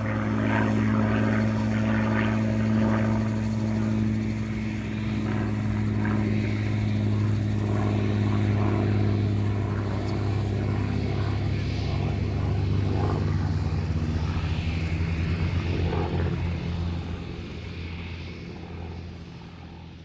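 Supermarine Spitfire Mk VIII's Rolls-Royce Merlin V12 engine running steadily at low power, a deep even drone that grows quieter over the last few seconds.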